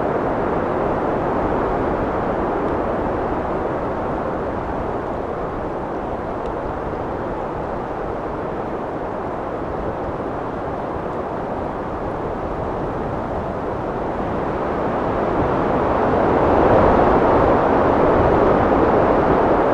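Wind blowing steadily in a continuous rushing noise, easing a little in the middle and then swelling into a stronger gust near the end.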